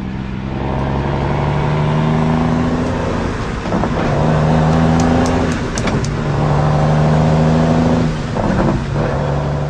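Ford dump truck engine running under load at a steady pitch, dipping briefly three times, as at gear changes or easing off the throttle.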